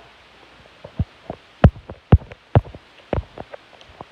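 A series of dull thumps, about two a second, loudest in the middle.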